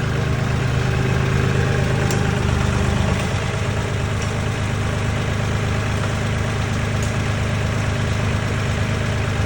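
An engine idling steadily, with a small change in its tone about three seconds in.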